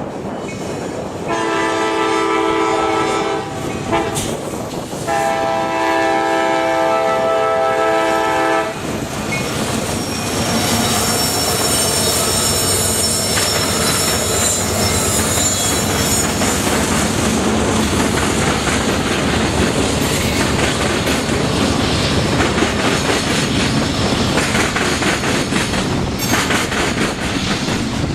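Locomotive horn sounding two long blasts as a chord of several tones. Then a train passes close by, its wheels clattering over the rail joints with a thin high wheel squeal.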